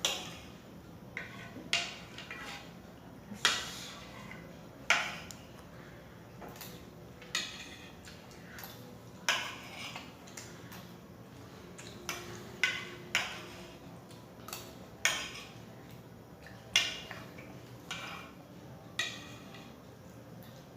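Cutlery clinking and scraping on a plate in short, separate strokes every one to two seconds as a meal is eaten.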